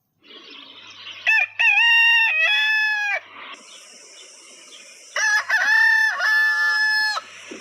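Rooster crowing twice: a full cock-a-doodle-doo about a second in and another about five seconds in, with a faint background hiss between the crows.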